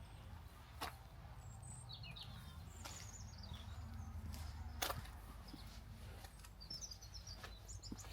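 Small birds chirping and twittering in short, quick phrases, a few near the middle and more near the end, over a steady low outdoor rumble, with a few sharp clicks.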